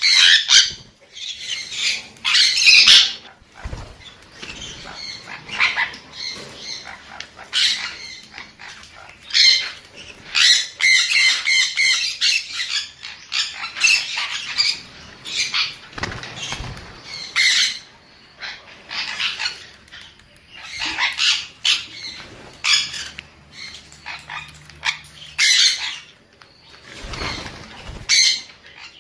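Sun conure calling: a long run of short, harsh squawks and chirps, loudest in the first three seconds, with softer chattering calls between the louder ones.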